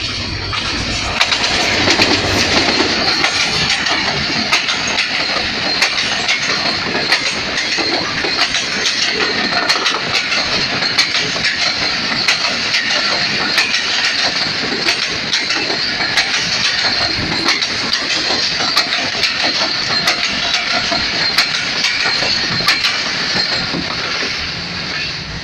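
Pakistan Railways passenger express hauled by an HGMU-30R diesel locomotive passing close by at speed: a steady rush of coach wheels on the rails with many sharp clicks as the wheels cross rail joints, easing off near the end as the last coaches go by.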